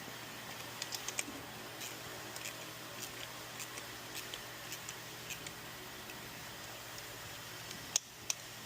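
Scattered light clicks and taps of hand tools and parts being handled, over a steady low hum, with two sharper clicks near the end.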